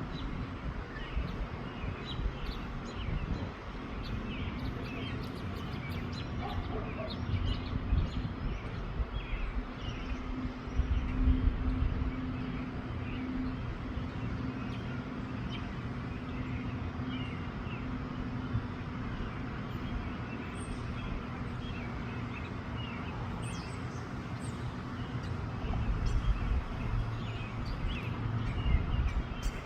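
Small birds chirping over and over, short high calls scattered throughout, over a steady low rumble and a faint hum.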